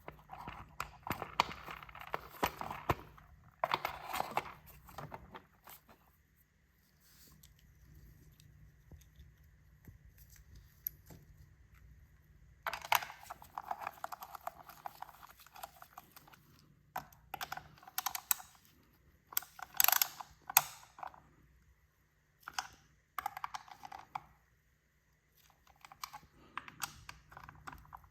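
Irregular clicks, taps and short scrapes of metal parts and hand tools as a motorcycle's sprocket cover is fitted back on and fastened, in clusters with quiet gaps between them.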